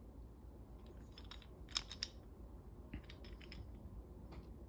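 Faint handling noise as a small wooden toy engine is turned over in the hands: light clicks and taps in a few quick clusters.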